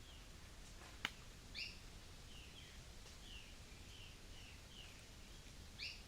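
Birds chirping faintly in a natural soundscape: many short, repeated chirps, with two louder two-note calls, one about one and a half seconds in and one near the end. A single sharp click about a second in.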